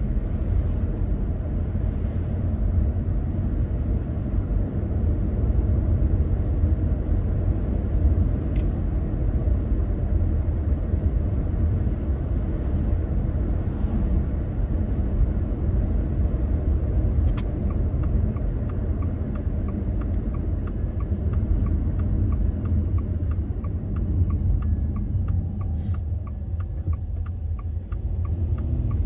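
Car driving, heard from the cabin: a steady low rumble of engine and tyre noise. About two-thirds of the way through, a regular ticking starts and keeps going.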